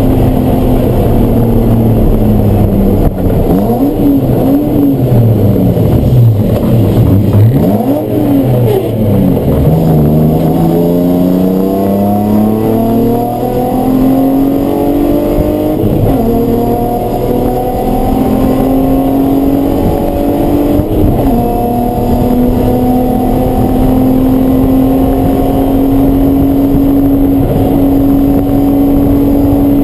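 Race car engine running hard on track. The revs fall and climb several times, then rise through a series of gear changes, each a rising pitch that drops back suddenly. For the last eight seconds or so it holds a steady high note.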